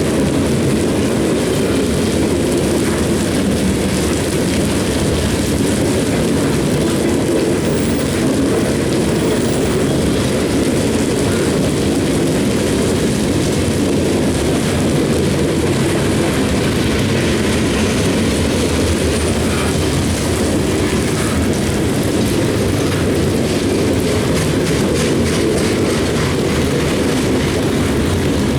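Cars of a CSX coal train rolling past in a steady loud rumble, with faint wheel clicks over the rails toward the end.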